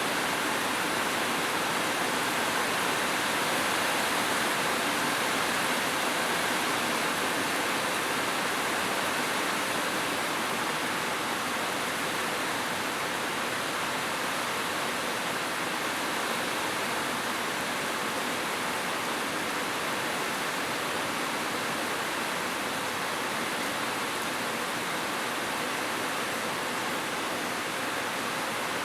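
Heavy rain falling steadily on a roof, an even hiss with no breaks.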